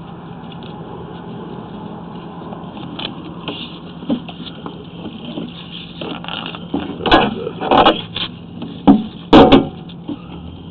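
A steady mechanical hum, with several loud knocks and clatters in the second half.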